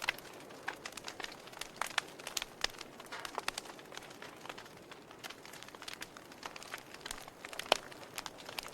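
Wood fire crackling: irregular sharp pops and snaps over a steady hiss of burning, with one louder pop near the end.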